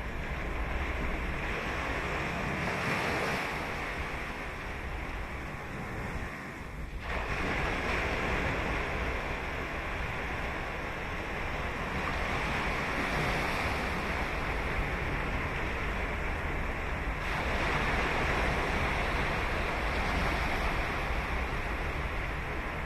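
Ocean surf breaking and washing up a beach, with a new wave surging in about seven seconds in and another around seventeen seconds in, over a steady low rumble of the sea.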